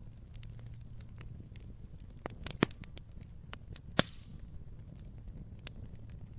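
Fire crackling: scattered small snaps, with a few sharp louder pops between two and four seconds in, over a low steady rumble.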